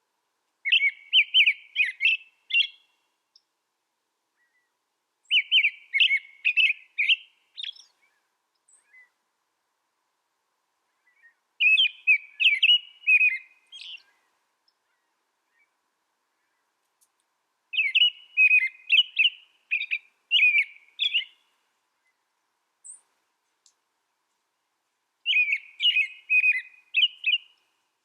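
A songbird singing: five short phrases of rapid, high twittering notes, each about two seconds long, separated by pauses of several seconds.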